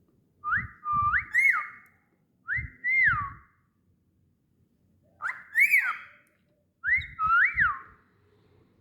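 Cockatiel whistling in four short phrases of swooping notes that slide up and down.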